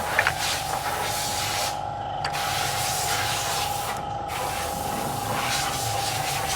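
Steady hissing spray that stops briefly twice, over a steady whine.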